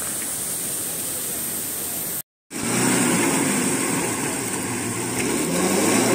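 Stream water rushing for about two seconds, then after a sudden cut, a Maruti Gypsy's engine working as it drives through deep mud, its revs rising a little near the end.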